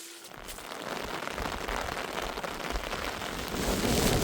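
Heavy rain falling, a dense steady patter that swells in over the first second and grows louder near the end.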